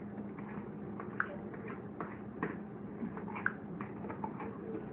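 Homemade slime being squeezed and handled, giving small irregular sticky clicks and pops over a steady low hum.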